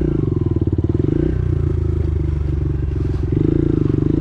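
Dirt bike engine running at low speed through deep sand, the revs rising and falling with the throttle and climbing louder about three seconds in.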